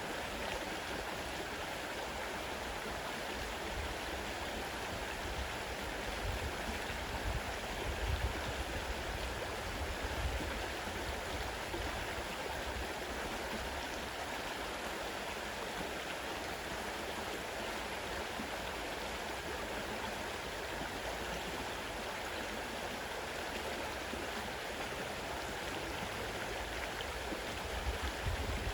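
Fast-flowing river water rushing steadily over its bed, with a few brief low rumbles.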